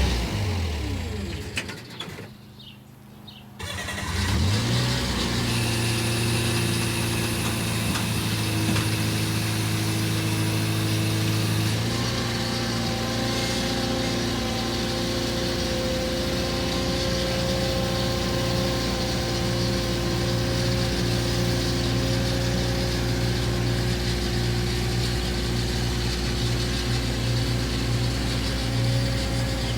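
Vehicle engine running, dropping away briefly in the first few seconds, then rising again at about four seconds and running steadily.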